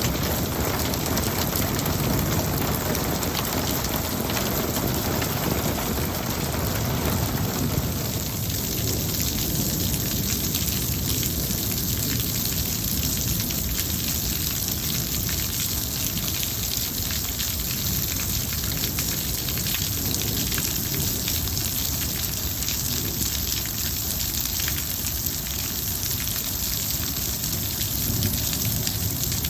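Steady rain falling, a dense even patter. In the first eight seconds a low rumble of thunder lies under it and dies away.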